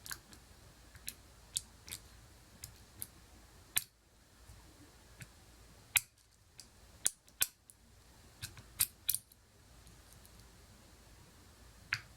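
Lock pick and tension wrench working a pin-tumbler lock cylinder: about sixteen sharp metallic clicks at irregular intervals, bunched most tightly in the middle. They are the clicks of pins binding and setting in a lock with spool pins, which throw it into false sets and counter-rotation.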